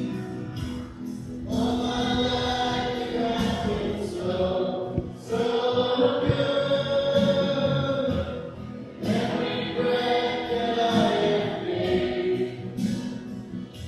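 A choir singing a gospel worship song in long held phrases, each breaking off after about four seconds.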